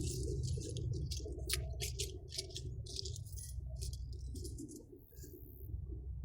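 Low rumble of a departing airliner's jet engines, fading and dropping away almost five seconds in, with light rattling and clicking close to the microphone.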